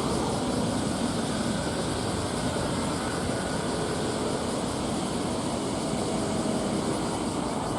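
Steady engine drone of a car ferry under way, a constant low rumble with a noisy hiss over it.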